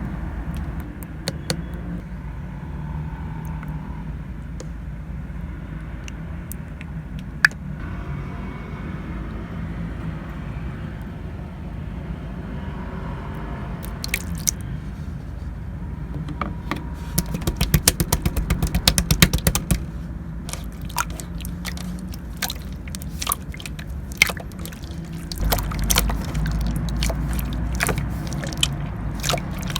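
Clear light-purple slime being worked by hand, giving scattered sticky clicks and pops, with a fast run of clicks about two-thirds of the way through. A steady low rumble runs underneath.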